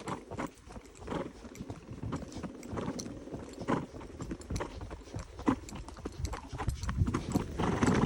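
Horse's hooves clip-clopping at a walk, uneven hoof strikes a few times a second.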